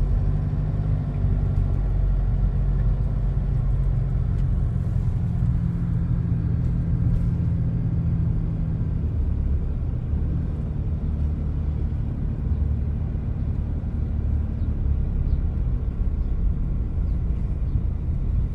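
Car engine and road noise heard from inside the moving car: a steady low rumble with an engine hum that changes about halfway through.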